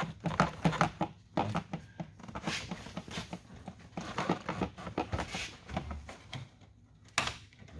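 Irregular clicks, taps and rustling of a car's plastic door panel and its wiring connectors being handled and worked loose, with one sharper knock about seven seconds in.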